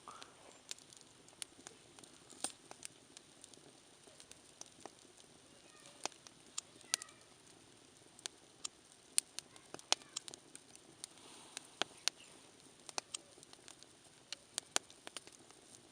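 Wood campfire crackling, with many sharp, irregular pops and snaps over a low steady hiss.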